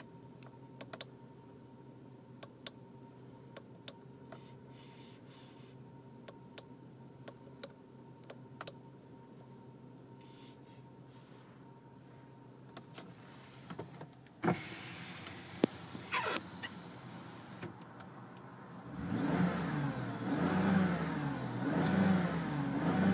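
1999 Volvo S80 T6's twin-turbo straight-six idling in Park, heard from inside the cabin, with scattered faint clicks. A couple of sharp knocks come about two-thirds of the way through. Then the engine is revved several times, the revs rising and falling.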